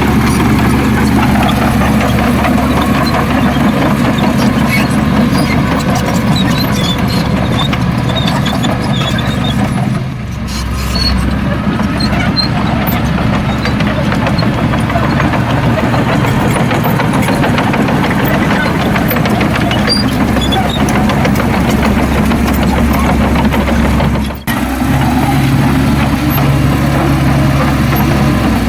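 Heavy diesel engine of earthmoving machinery running steadily, with a brief dip about ten seconds in and a sharp momentary break near the twenty-four-second mark.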